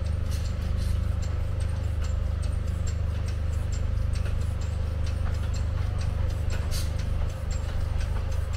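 Narrow-gauge train running: a steady low rumble with a stream of light, irregular clicks and rattles, several a second, over a faint steady hum.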